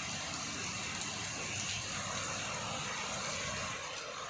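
Heavy rain pouring down, a steady even noise with no breaks.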